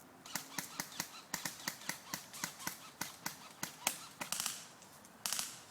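Airsoft guns firing a rapid string of sharp shots, about five a second, then a louder, longer crack near the end.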